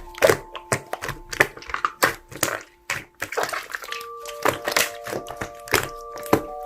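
Slime being squeezed and poked by hand, an irregular run of sharp clicks and pops several times a second, over background music with held notes that change about four seconds in.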